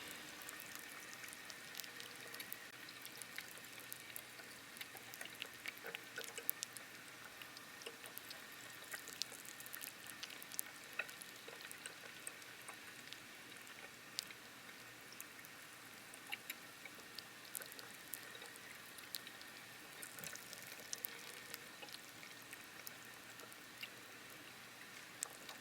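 Chicken adobo with bacon and mushrooms frying in a pot: a faint, steady sizzle scattered with many small pops and crackles.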